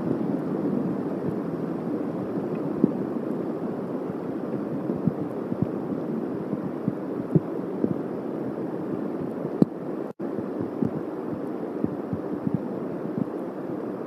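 Steady rain falling on a treetop eagle nest, with irregular taps of drops hitting close by; the sound cuts out for a split second about ten seconds in.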